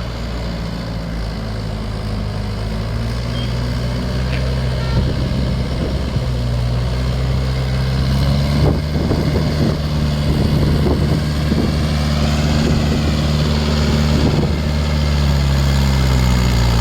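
Trakstar 545 tractor's diesel engine running steadily under ploughing load, slowly growing louder. From about eight seconds in, a run of knocks and rattles is heard over the engine.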